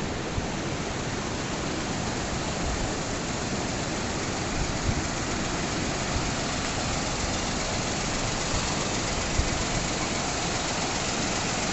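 Steady rushing of the Hidaka River running high and muddy after a typhoon, an even roar of water with no rises or breaks.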